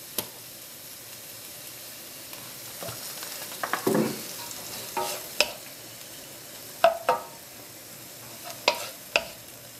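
Prawns frying in oil in a hot pan, with a steady sizzle. A cooking utensil knocks and scrapes against the pan every second or two as they are stirred.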